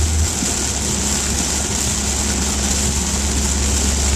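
Car cabin noise while driving in heavy rain: a steady low engine and road rumble under a constant hiss of rain and tyres on the water-covered road. The rumble drops slightly in pitch shortly after the start.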